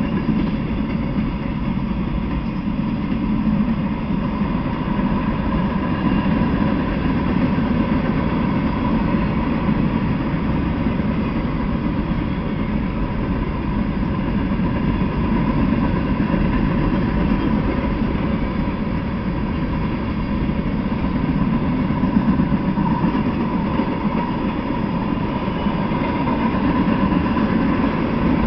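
A freight train's cars rolling past on the rails: a steady, continuous rumble of steel wheels on track, with a faint high tone running over it.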